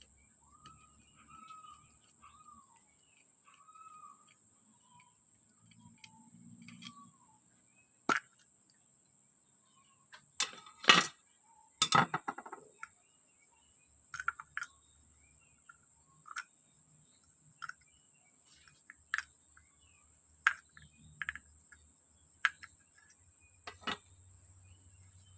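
Sharp clicks and knocks of small metal parts and tools being handled while a brush cutter carburetor is worked on, loudest in a cluster about halfway through, then single clicks every second or two. A bird chirps a few times at the start, and a faint steady high whine runs underneath.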